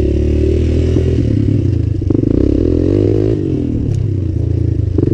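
Suzuki LTZ 250 quad's single-cylinder four-stroke engine running through a DG Performance RCM II aftermarket exhaust while riding. The revs rise and fall once, about two to three seconds in.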